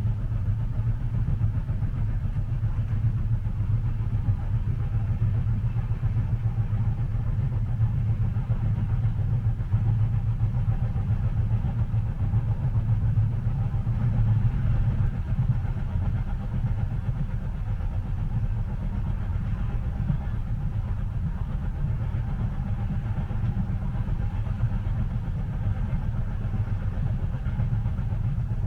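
Steady low rumble of a train running, heard from inside a passenger cabin, even and unbroken.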